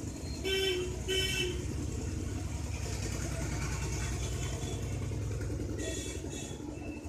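Road traffic: a steady engine rumble with short horn toots, two close together in the first second and a half and another about six seconds in.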